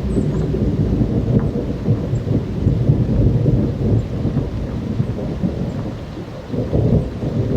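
Thunderstorm: thunder rumbling low and continuously over steady rain, swelling again near the end.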